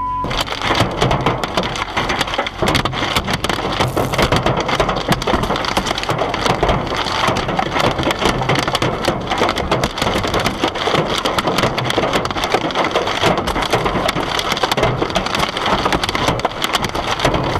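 Hailstones pelting hard surfaces in a heavy hailstorm: a loud, dense, unbroken clatter of impacts.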